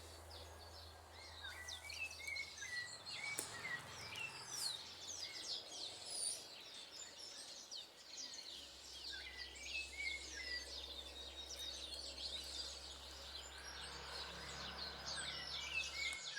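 Birds chirping and calling: many short, quick notes overlapping throughout, with a few clearer whistled notes now and then.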